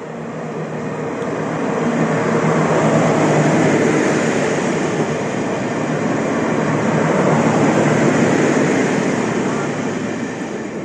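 Yellow rail engineering train passing through at speed: the rush and rumble of wheels on rail with a steady low hum, building as it approaches, staying loud as the vehicles go by and fading near the end.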